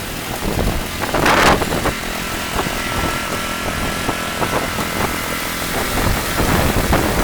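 Storm wind gusting hard against the microphone, a heavy low rumble with a loud rushing surge a little over a second in. A faint steady whine runs through the middle.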